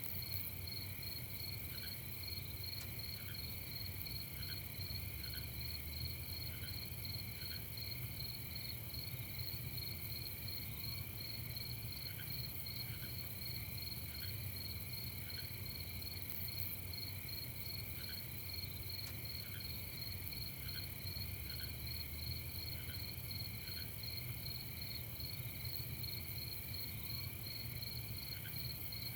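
Crickets chirping in a steady, fast-pulsing night chorus, with a softer, lower chirp repeating about once a second beneath it and a faint steady low hum.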